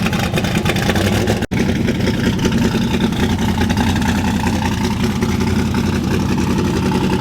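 Loud drag-truck engine noise that runs steadily with a low hum and drops out sharply for an instant about a second and a half in.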